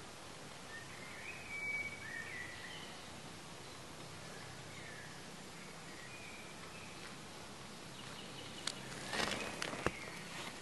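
Faint birdsong, short chirping phrases, over a steady outdoor background hiss. Near the end comes a brief burst of rustling and sharp clicks, the loudest sound here.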